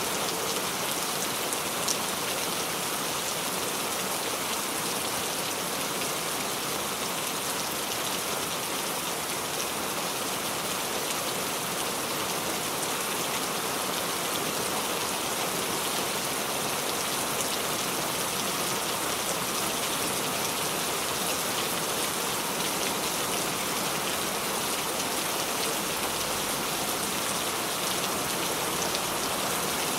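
Steady rain falling on a surface, an even hiss of many small drops without let-up, played as a relaxation sound effect.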